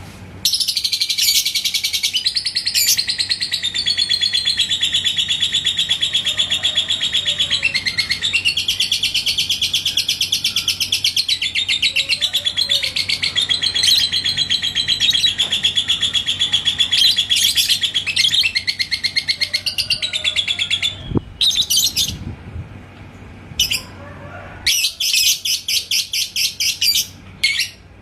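Lovebird singing ngekek: a long, unbroken, rapid chattering trill that runs for about twenty seconds, then breaks into shorter trilled bursts near the end.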